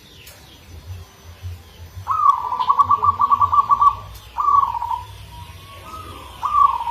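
Zebra dove (perkutut) singing its cooing song. About two seconds in comes a rapid stuttering trill of a dozen or so pulses, followed by three shorter descending coos. Faint chirps of other small birds sit behind it.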